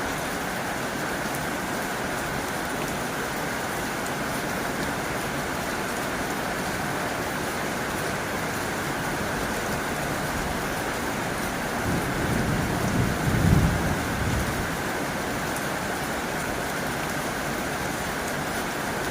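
Heavy rain drumming steadily on a tin roof. A low rumble swells and fades for about two seconds, two-thirds of the way through.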